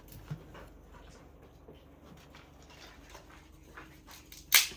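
A dog making faint, irregular sounds close by, with one short, loud, noisy burst near the end.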